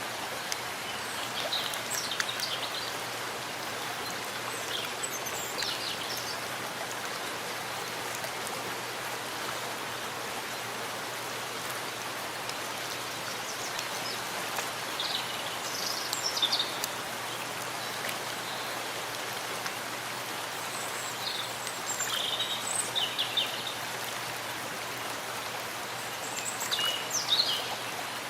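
Steady rain falling in a forest, an even hiss of drops. Short high bird chirps break through it several times.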